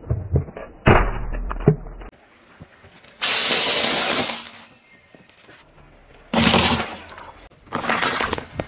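Objects cracking and crunching as they are crushed under a car's tyres: a quick run of sharp cracks, then three separate bursts of crunching and popping.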